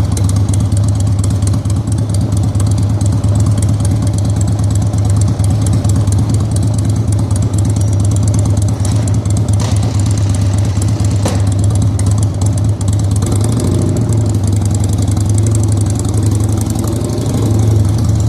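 A vehicle's engine idling steadily through its exhaust, a low even drone that swells slightly near the end.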